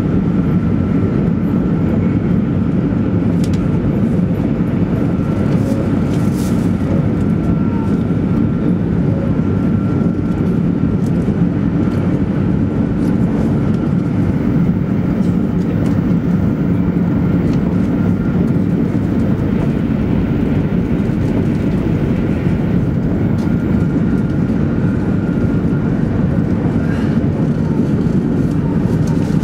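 Cabin noise inside a 200 series Shinkansen train running at speed: a steady low rumble of the running gear and rails through the car body, with a faint steady high whine over it.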